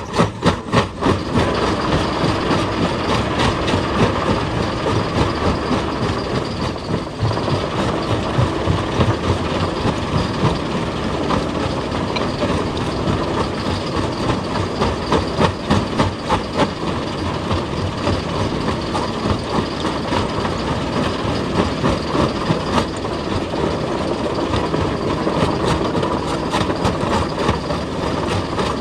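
Heavy diesel machinery running steadily, with rapid, evenly spaced knocks at the start and repeated short knocks running through it.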